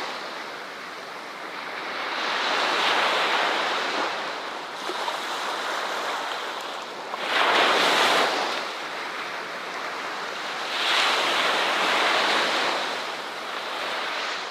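Ocean waves breaking and washing up a shore, in slow swells a few seconds apart: three surges, the loudest about eight seconds in.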